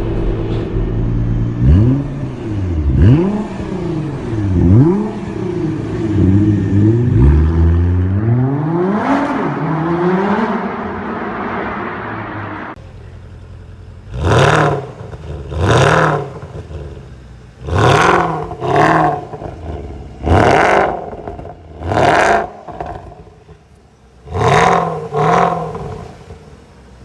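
Porsche Panamera V8 through an Underground Exhaust Stage 2 aftermarket exhaust, revved up and down repeatedly for about twelve seconds. After a short lull, about eight short, sharp throttle blips follow, each rising quickly and falling away.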